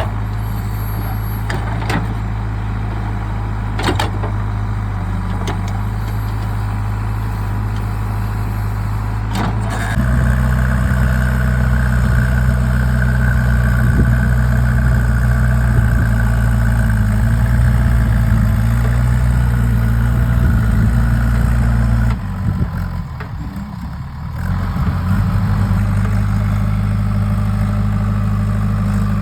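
Diesel engine of a JCB 3DX backhoe loader running at work loading mud, with a few sharp knocks in the first ten seconds. About ten seconds in the engine gets louder under load and holds there, dips briefly a little past twenty seconds, then picks up and runs steadily again.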